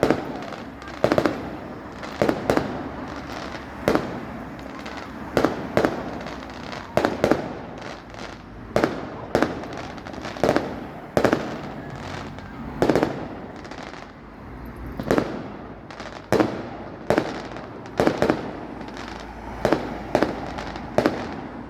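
Fireworks display: a steady run of sharp bangs from bursting aerial shells, about one or two a second, over continuous crackling between them.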